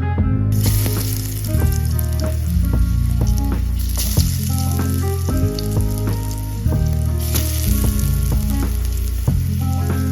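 Food frying in hot oil, a steady sizzle with scattered crackles that starts about half a second in, over background music with a plucked-note melody and bass line.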